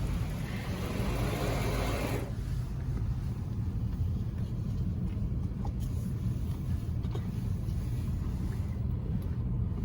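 PDQ LaserWash 360 touchless car wash spraying water against the car with a hiss for about two seconds, then a steady low rumble.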